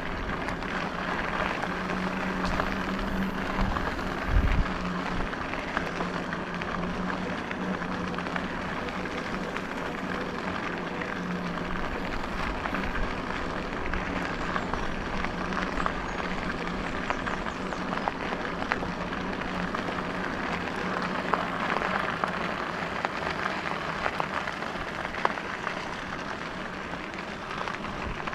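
Electric bike being ridden: a steady low hum from the motor over constant tyre and wind noise with light crackling, and a single thump about four and a half seconds in.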